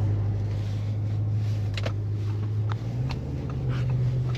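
Audi S6 engine running, heard from inside the cabin as a steady low drone that steps up slightly in pitch a little under three seconds in, with a few faint clicks.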